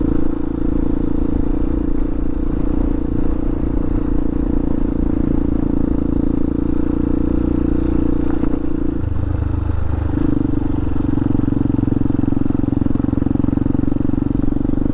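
Hawk 250 dual-sport motorcycle's single-cylinder engine running steadily under way on a dirt trail. About nine seconds in the engine note drops briefly, then picks up and holds steady again.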